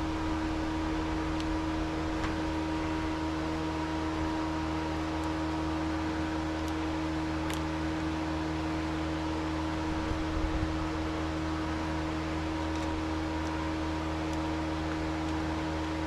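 A steady mechanical hum with an even tone and hiss, with a few faint clicks and a brief low knock about ten seconds in.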